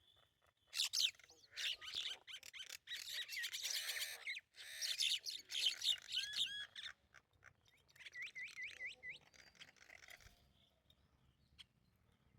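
Small songbirds chirping and singing, many quick high calls overlapping, with a run of five rapid repeated sliding notes about eight seconds in; the birdsong stops about ten seconds in.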